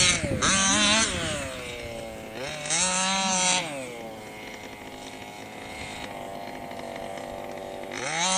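Baja Bug's engine revving hard: its pitch rises and falls twice in the first few seconds, then it runs lower and steadier before climbing again near the end.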